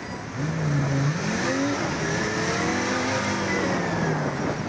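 A motor vehicle engine accelerating, its pitch rising over about the first two seconds and then falling slowly.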